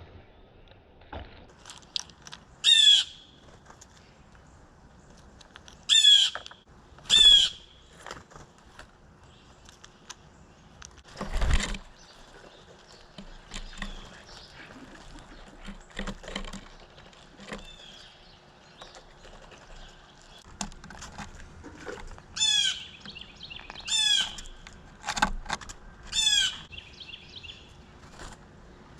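Harsh, rolling bird calls from the birds in the backyard fight, six loud ones of about half a second each in two bunches, with scattered small taps in between. A single loud thump comes about eleven seconds in.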